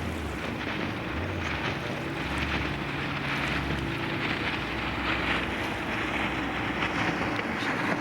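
Ski boat's engine running steadily, with wind buffeting the microphone.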